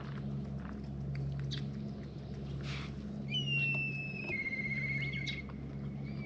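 A bird's long, high whistled call about three seconds in: it falls a little in pitch, then holds steady with a faint waver, and a second call starts near the end. Small clicks of cats eating from a plate and a low steady hum lie underneath.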